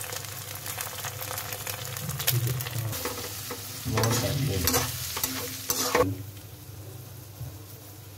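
Eggs with chopped onion and tomato sizzling in a metal kadhai while a metal spatula scrapes and stirs to scramble them. The scraping is loudest about four to six seconds in, and the sizzle goes quieter after that.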